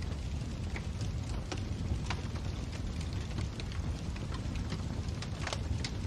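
Wood fire burning in a fireplace: a steady low rumble with scattered sharp crackles and pops, the loudest pops about a second and a half in and near the end.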